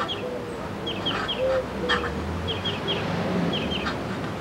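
A bird calling over and over: short low notes about twice a second, each with two or three quick high chirps, and a few light taps among them.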